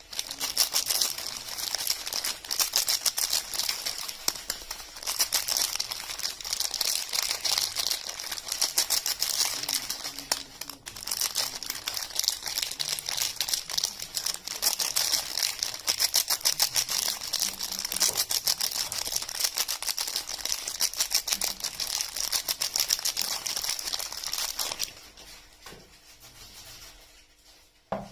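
Soap packaging being unwrapped: dense, rapid crinkling and tearing of wrapping for about 25 seconds. It then goes quieter, with one sharp tap or knock at the very end.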